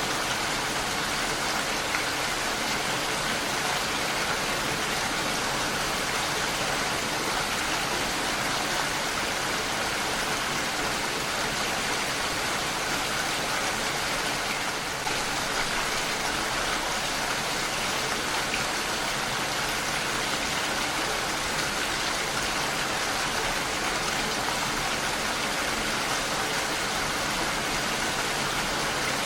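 Heavy rain falling steadily on a window, an even hiss of countless drops with no pauses.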